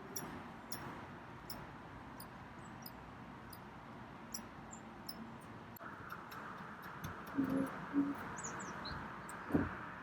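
Birds calling: scattered short high ticks and chirps, with a few quick falling chirps near the end and a couple of short low notes just before them, over a steady background hiss.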